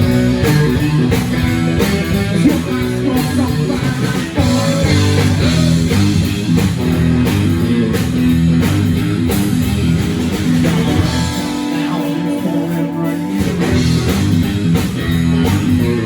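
Live rock band playing an instrumental passage: guitar over drums and bass. The lowest notes drop out for about two seconds past the middle, then come back in.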